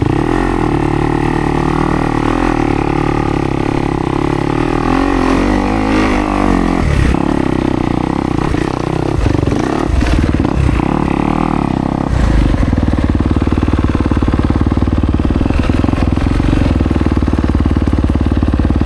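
Kawasaki KX250X two-stroke dirt bike engine under way, its pitch rising and falling with the throttle, with a few clattering knocks in the middle. About two-thirds of the way through it settles into a steadier, lower note.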